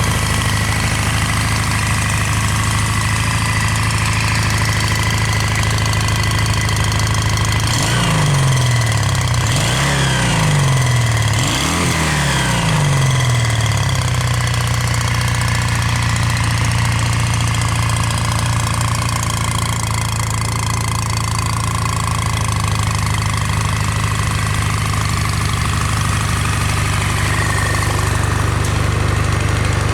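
Kawasaki W800's air-cooled parallel twin idling through its stock exhaust, with three quick throttle blips about eight to fourteen seconds in, each rising and falling back to a steady idle.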